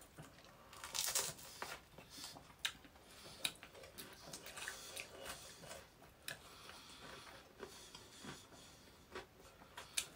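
People chewing food close to the microphone: soft wet mouth sounds with scattered crisp crunches, the loudest crunch about a second in.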